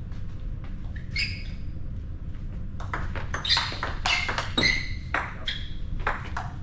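Table tennis rally: the ball clicking sharply off bats and table, a string of hits about half a second apart from about halfway in.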